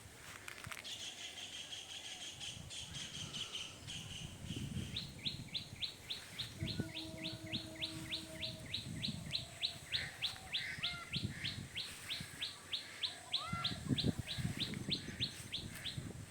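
Birds singing: a high trill in the first few seconds, then one bird repeating a short high note about three times a second for over ten seconds, with scattered low thumps underneath.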